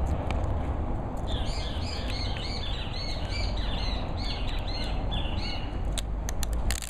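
A songbird chirping a rapid series of short, repeated notes for a few seconds, over a steady low rumble of outdoor background noise. Near the end come a few sharp clicks.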